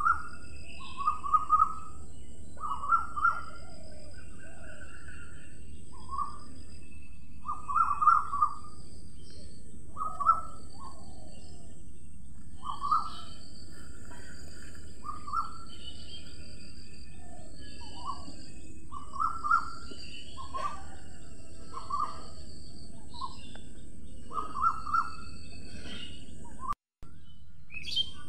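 Birds calling outdoors: short, clear calls every second or two, with higher chirps and trills between them, over a steady background hiss. The sound drops out for a moment near the end.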